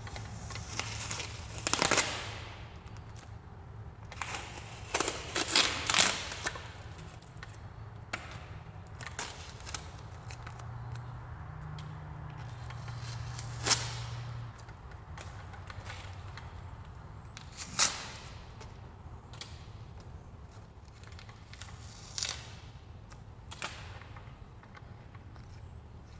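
Masking tape being peeled off a freshly painted guitar body, in irregular short crackling rips, the loudest cluster about five to six seconds in.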